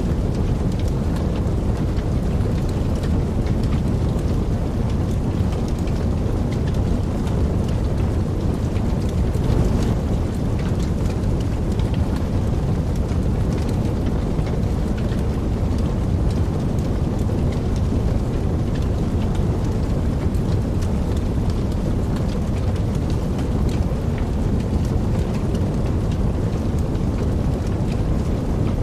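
Wood fire burning in a fireplace: a steady low rush of flames with dense small crackles and pops throughout.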